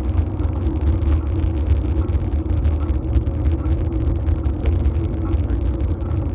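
Steady low rumble of riding noise from a phone mounted on a fixed-gear bike's handlebars: tyres rolling over the path and air rushing past the microphone.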